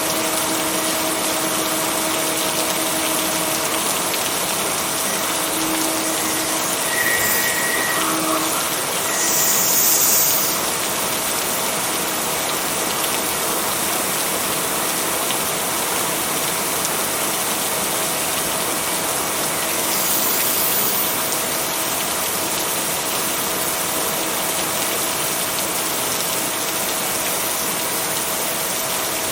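Steady rain hiss with a faint steady hum underneath; the hiss swells briefly about ten seconds in and again around twenty seconds.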